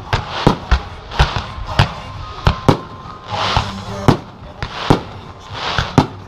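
Aerial fireworks shells bursting in quick succession, about ten sharp bangs spaced half a second to a second apart, with crackling hiss from the bursts in between, over background music.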